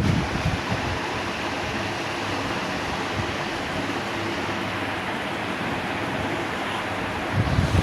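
Ceiling fan running with a steady rush of moving air. About seven seconds in, uneven low gusts of air buffeting the microphone start up again.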